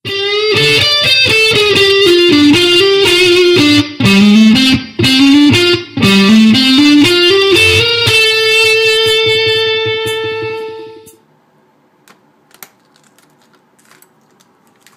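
Electric guitar playing a melodic riff of stepping single notes with brief breaks, ending on one held note that cuts off suddenly about eleven seconds in; after that only a few faint clicks.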